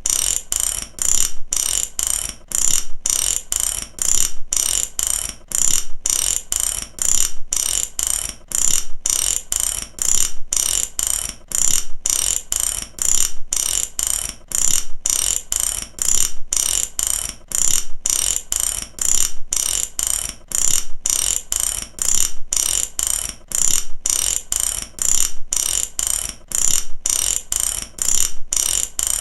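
Mechanic's ratchet wrench clicking continuously, its pawl snapping over the gear teeth in a fast, even run of sharp, high-pitched clicks that rises and falls in repeated strokes.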